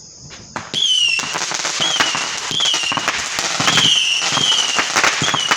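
A barrage of fireworks going off, starting about a second in: a dense run of sharp bangs and crackles mixed with short, falling whistles that repeat again and again.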